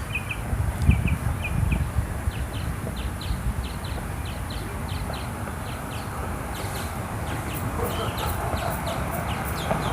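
A bird chirping over and over, short high rising chirps at about two to three a second, over a low outdoor rumble.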